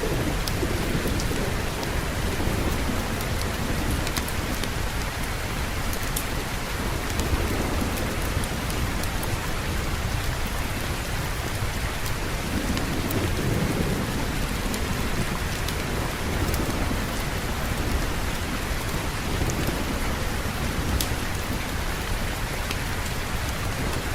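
Steady heavy rain with low rolling thunder that swells about halfway through, and small sharp clicks scattered throughout.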